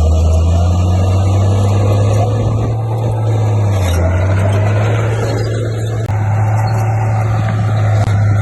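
Komatsu D58P bulldozer's diesel engine running steadily with a deep drone, its pitch dipping briefly about four seconds in.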